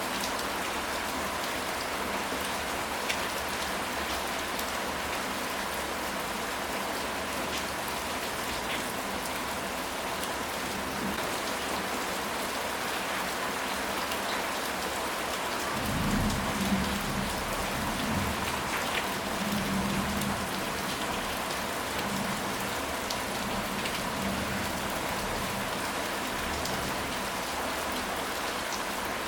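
Steady rain, with a low rumble of thunder a little past halfway that lasts several seconds.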